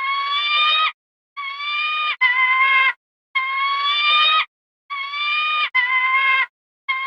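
An animal call repeated about seven times: high, clear, slightly rising cries, each under a second long, broken by abrupt silent gaps as if looped.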